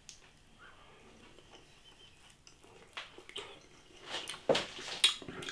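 A man chewing a mouthful of Yorkshire pudding: soft at first, then a run of mouth smacks and clicks from about three seconds in, loudest near the end.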